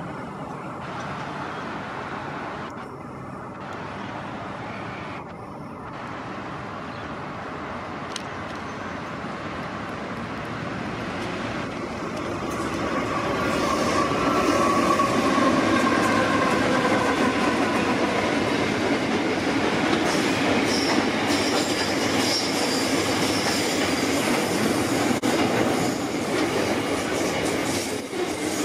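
Standard-gauge freight train passing close by, its wagons clattering over the rails, louder from about halfway through. Wavering squeals from the wheels come in after the middle.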